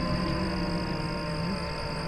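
DJI FPV drone's motors and propellers whining in flight, a steady multi-tone hum whose pitch drifts slowly lower.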